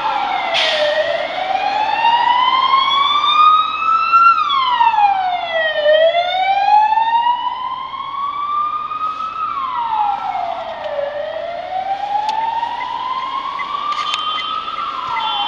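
Emergency vehicle siren on a slow wail, passing close by. Each cycle climbs over about three seconds, then drops back quickly, about three times, over street traffic noise.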